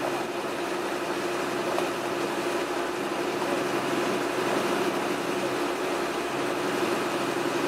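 Tour boat's engine running steadily under way, a constant droning hum over an even rushing noise.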